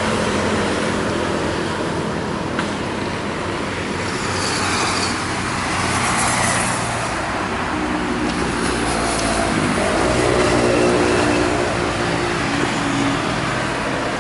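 Passenger train running as it pulls away from a station, heard from an open carriage window: a steady rumble of wheels on the rails and engine noise, with a humming tone rising out of it about eight seconds in.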